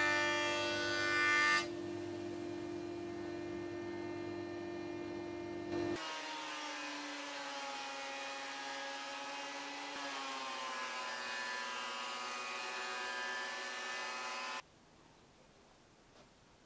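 Jointer cutter head planing a board, the whine fuller until about a second and a half in, then spinning on without load. After an abrupt change, a benchtop thickness planer runs as a board feeds through, its pitch dropping under the cut. The machine noise stops suddenly near the end, leaving faint room tone.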